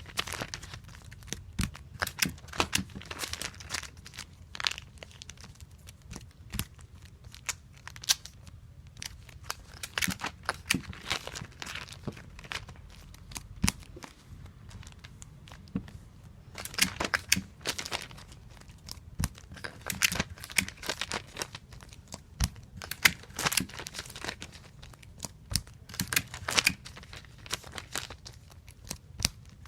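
Clear tape being pulled off a tape dispenser and torn on its cutter, again and again, with crinkling as the comic books are handled and taped. The sound is a string of irregular sharp clicks and short rips, sparser for a few seconds early on and busier in the second half.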